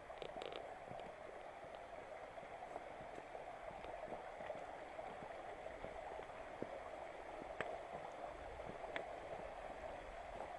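Mountain creek running over a rocky bed, a steady rush of water, with a couple of sharp clicks near the end.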